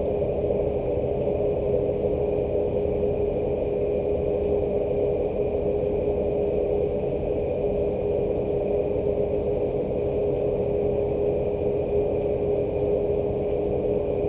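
A steady, unchanging machine hum with one strong fixed tone, like an idling engine or a ventilation unit.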